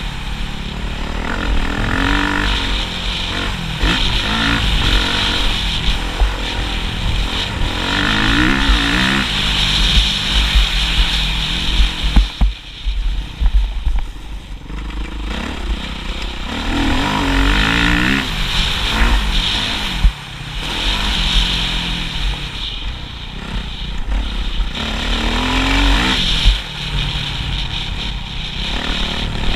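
Motocross dirt bike engine revving up and down repeatedly as it is ridden around a track, its pitch climbing and falling with each rev.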